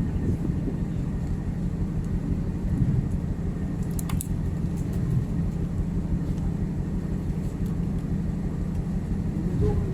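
Steady low rumble and hum of a ship's machinery, with a single sharp click about four seconds in.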